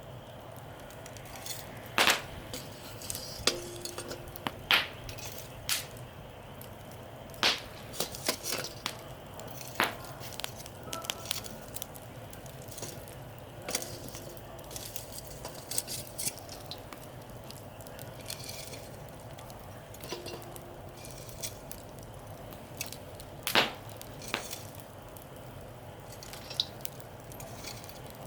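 Wood campfire crackling, with sharp pops at irregular intervals over a steady low hiss.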